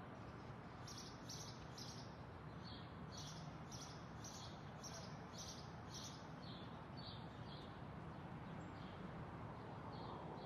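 A bird chirping over and over in short, high notes, about two a second, over a faint steady hiss of outdoor ambience.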